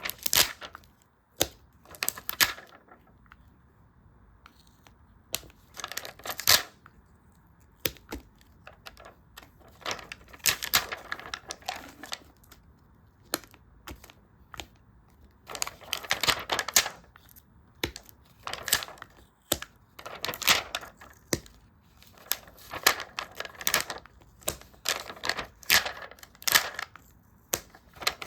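Stickers and paper handled close to the microphone: peeling, crinkling and tapping in short spells of a second or so, with quiet gaps between them.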